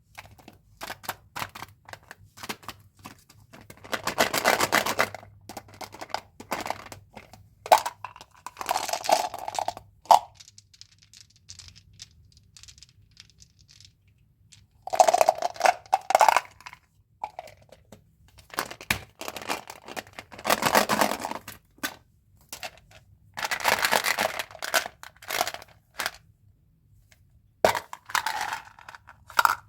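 Candy and gum packaging being handled: sharp taps and clicks throughout, with several bursts of plastic wrappers crinkling and tearing open, each lasting a second or two.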